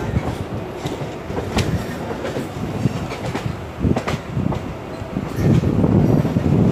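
Mumbai suburban electric local train running, heard from its open doorway: a steady rumble of wheels on rails broken by a few sharp clacks from rail joints. It grows louder near the end.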